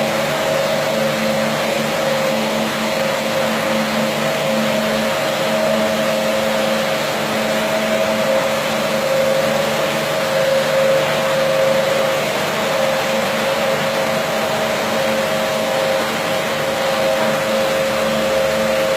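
Carpet washing machine running steadily, a constant mechanical hum with a rushing noise over it.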